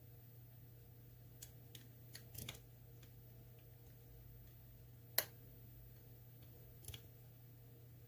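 Lock pick and tension wrench working the pin stack of an ASSA Twin Combi cylinder: a few faint metallic clicks and a short scratchy cluster, then one sharper click a little past halfway and a small double click after it.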